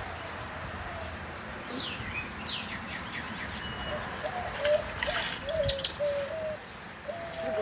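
Small birds chirping: several quick downward-sweeping calls and a few short high notes.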